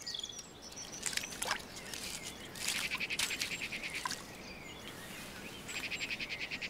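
Birds calling: short high chirps, then a rapid trill about two and a half seconds in lasting over a second, and another trill near the end.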